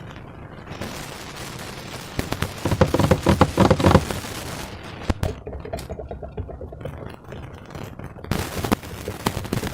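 Slime being worked by hand, with rapid crackling and popping of trapped air, densest and loudest about three to four seconds in.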